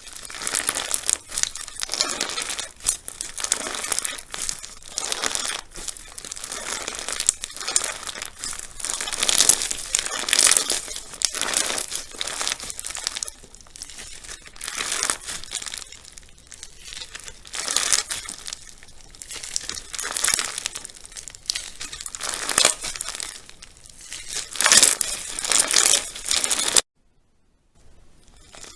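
Crunchy slime being pressed and squeezed by hand, giving a dense crackling and crinkling that swells in waves. It cuts off suddenly near the end for about two seconds, then starts again.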